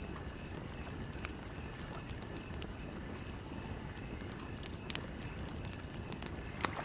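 Campfire crackling, with scattered sharp pops, the loudest near the end, over a steady low rumble.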